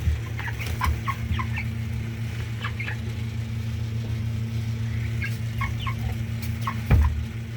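Five-week-old broiler chickens clucking and peeping in many short calls over a steady low hum, with a single knock about seven seconds in.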